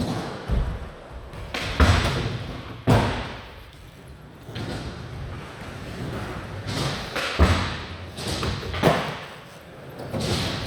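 Skateboards rolling and banging on ramps: a rough rush of wheels broken by several sharp board impacts, thuds and slams of landings and board slaps, ringing in a large indoor hall.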